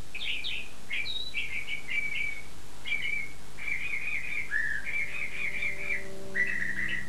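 A songbird singing, a continuous string of short high chirps and warbled phrases. Faint low held notes come in about halfway through.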